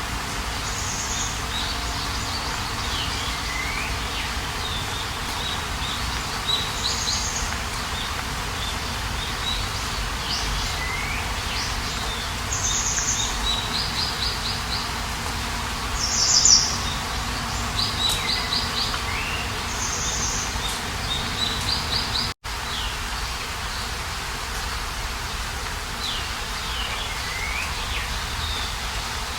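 Songbirds chirping and trilling in repeated short phrases, some calls sweeping downward, over a steady background hiss of outdoor ambience. The sound cuts out for an instant about three-quarters of the way through.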